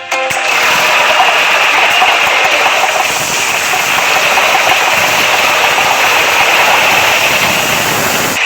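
Steady, loud mechanical noise with no clear pitch, like a construction machine's engine running, starting just after a brief dip and cutting off at the end.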